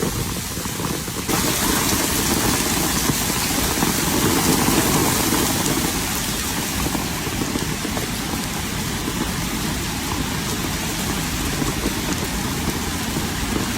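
Steady rain falling, a dense hiss that gets brighter and louder about a second in.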